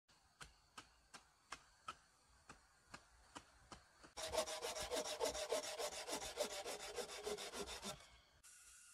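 Hand work on wood: light, evenly spaced knocks for the first few seconds, then from about four seconds in, louder fast rasping strokes of a hand saw cutting wood, stopping near the end.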